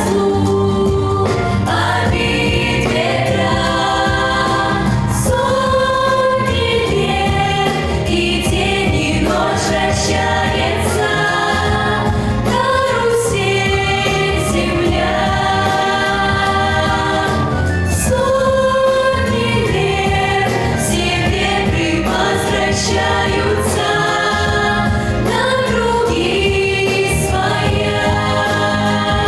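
Children's vocal ensemble singing together over an instrumental backing track.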